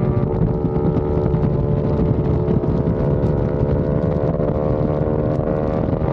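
Aprilia RS660 parallel-twin engine running through a non-resonated Mivv XM-1 Evo exhaust, a deep, bassy note held at fairly steady revs.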